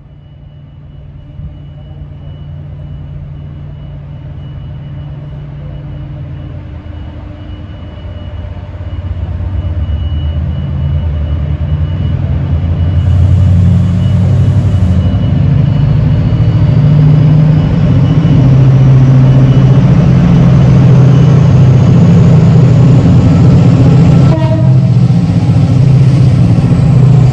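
A diesel train passing close by. It grows steadily louder over the first dozen seconds as it approaches, then runs loud and steady with a heavy low engine note.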